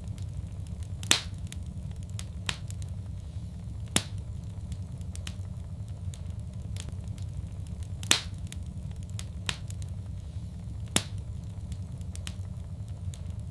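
Fire in a fireplace crackling over a steady low rumble. Sharp pops come every second or few, about six in all, the loudest a little after one second in and about eight seconds in.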